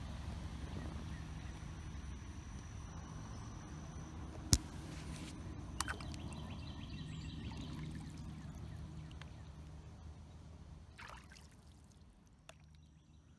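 River water trickling and lapping around a kayak drifting in a fast current, with one sharp knock about four and a half seconds in and a lighter click about a second later. The water sound grows fainter near the end.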